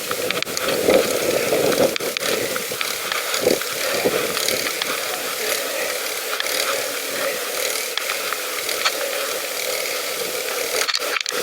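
Bicycle in motion, its freewheel ticking in a rapid run of ratcheting clicks over a steady rattle and rush of riding noise.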